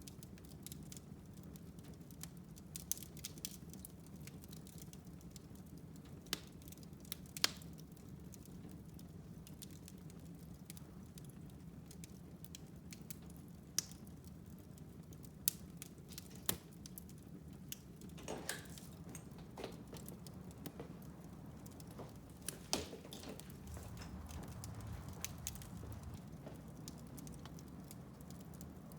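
Wood fire in a fireplace crackling: irregular sharp pops and snaps, a few louder than the rest, over a low steady rumble of the burning fire.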